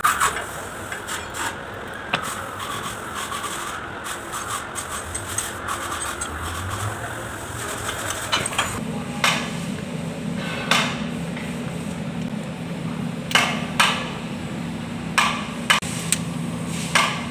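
Hammer knocks during engine teardown, separate sharp blows a second or more apart, several coming close together in the second half, as a part is knocked loose. A steady low hum comes in about halfway through.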